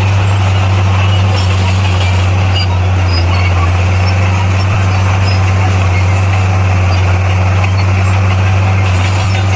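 Heavy earth-moving machine's diesel engine running steadily at constant speed: a loud, unchanging low drone over a rough mechanical rattle.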